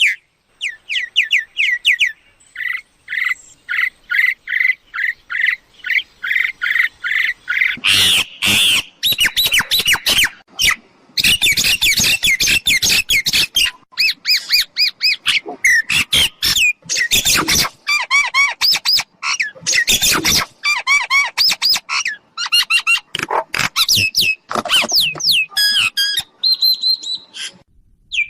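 Mynas calling: a quick run of repeated whistled notes, then a long stretch of loud harsh squawks and chatter mixed with whistles, as used in decoy trapping of mynas.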